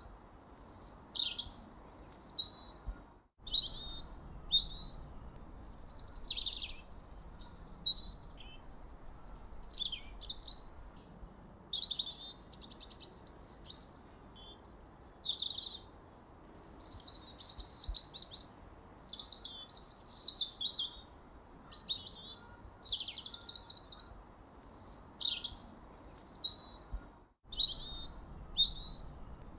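Songbirds chirping and singing, a dense run of short, quick, sliding high phrases overlapping one another, over a faint steady background hiss. The whole sound cuts out for an instant twice, about three seconds in and near the end.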